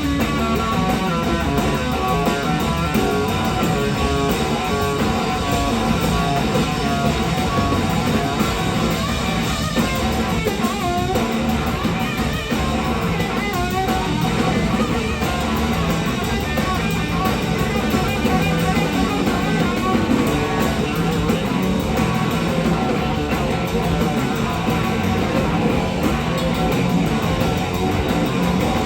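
Live rock band playing with an electric slide guitar soloing over bass and drums; the guitar's notes glide and waver in pitch.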